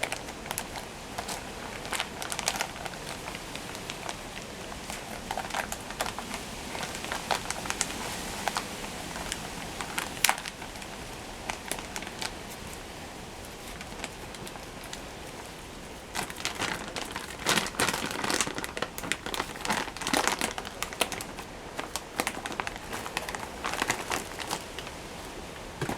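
Crinkling and rustling of packaging being handled, with scattered sharp clicks and small knocks. The handling gets busier and louder for the last ten seconds or so.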